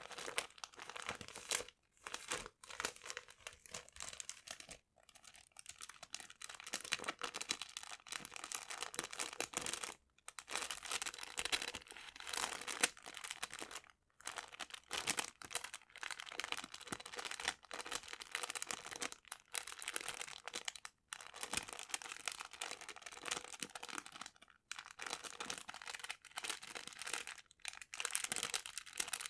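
Paper being crinkled and crumpled close to the microphone: dense, crisp crackling that stops briefly several times before starting again.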